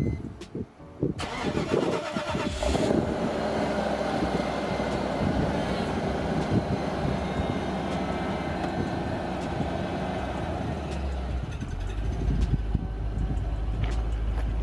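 Mercedes-Benz SL500's V8 with a RENNtech exhaust starting up in freezing cold: it catches suddenly about a second in, flares for a moment, then settles into a steady idle.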